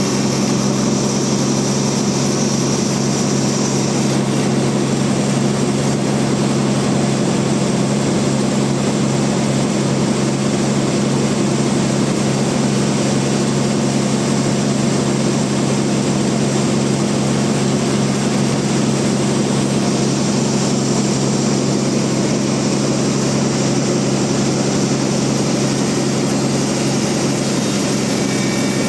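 Band sawmill running steadily, its motor and blade giving a constant drone with a strong low hum.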